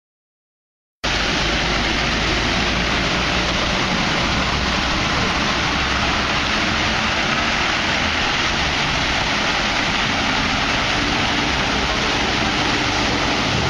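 Steady road and wind noise of a moving car as picked up by a dashcam microphone, starting abruptly about a second in as a new clip begins, with a faint engine hum underneath.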